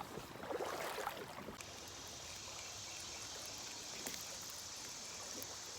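Creek water running over rocks, a steady rushing hiss, with a few louder uneven splashy bursts in the first second and a half.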